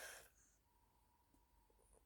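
Near silence: room tone, after a soft breath fades out at the very start.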